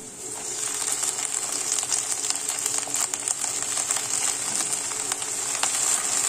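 Onions and green chillies frying in hot oil in a steel kadai, with fresh fenugreek leaves added on top: a steady sizzle with crackling.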